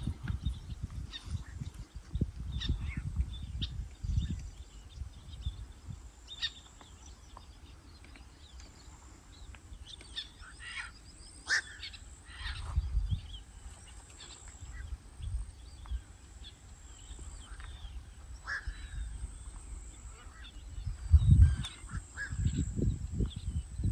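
Birds chirping and calling in short, scattered notes, over a low uneven rumble of wind buffeting the microphone that is strongest near the end.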